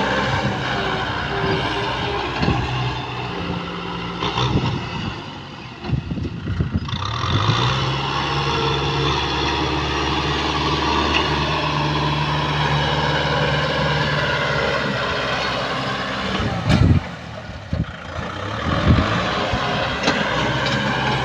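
Kubota M6040 tractor's diesel engine running, its note sagging about a quarter of the way in and then rising again as it picks up speed. A couple of sharp knocks come a few seconds before the end.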